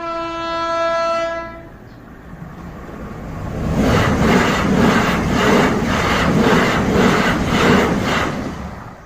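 Class 08 diesel shunter sound: a single-note horn blast of about a second and a half, then the engine building up and throbbing about twice a second as it pulls away.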